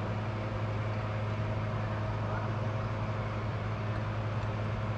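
A steady low machine hum running without change.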